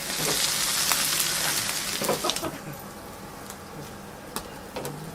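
A loud, even hiss for about two and a half seconds that then dies away, with a few sharp clicks after it.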